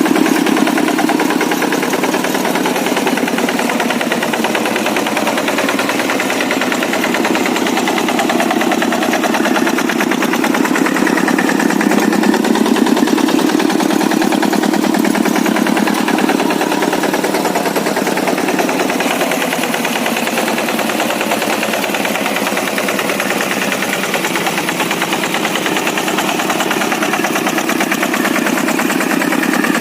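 Kubota single-cylinder diesel engine of an old Quick G100 two-wheel hand tractor running, a fast even chugging whose strength swells and eases a few times as the load changes.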